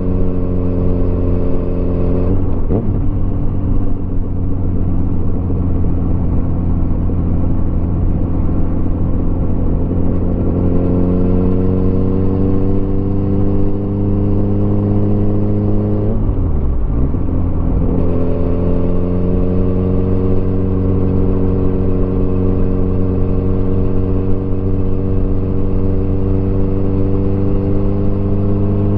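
Motorcycle engine running under way, its pitch creeping slowly upward, with two brief breaks where the pitch drops and comes back: once near the start and once about two-thirds of the way through.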